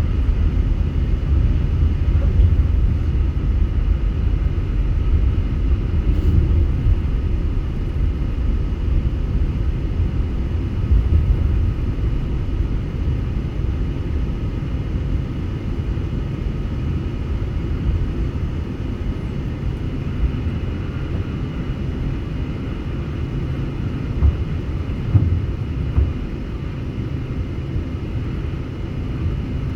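Boeing 747-8 airliner running with a steady low rumble that eases slightly over time, with a few light thumps near the end.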